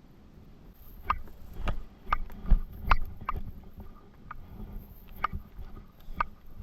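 About a dozen sharp, irregular clicks and taps, a few with a short hollow ring, over a low rumble.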